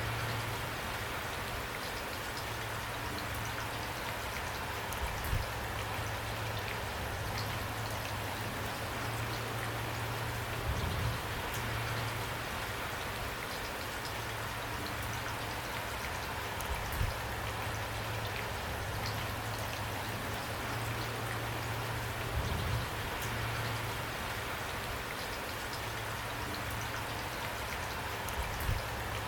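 Steady rain falling, an even hiss of many drops, with a brief low thump every five to six seconds.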